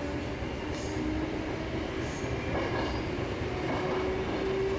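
Sanyo Electric Railway train running, heard from inside the car: a steady rumble of wheels on rail, with an electric motor whine that rises slowly in pitch as the train gathers speed.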